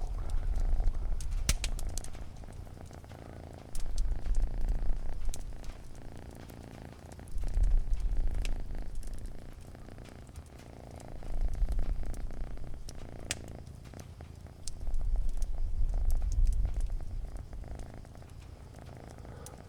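Cat purring, a low rumble that swells and fades about every four seconds with its breathing, five times. Sparse sharp crackles of a wood fire sound over it.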